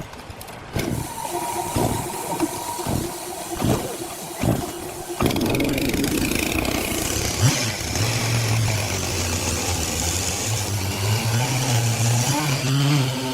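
A run of separate knocks. Then, about five seconds in, a sawmill's engine-driven saw starts up and keeps running, its pitch shifting a little, with a hiss over it.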